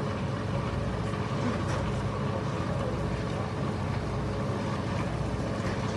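A vehicle engine running steadily: an even low rumble with a faint steady hum over it.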